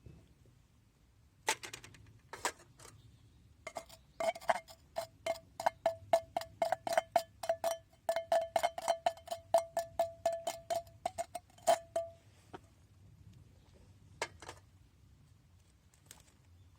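Metal utensil clinking rapidly against metal cookware: a run of ringing clinks, about four or five a second for some eight seconds, with a few single knocks before and after.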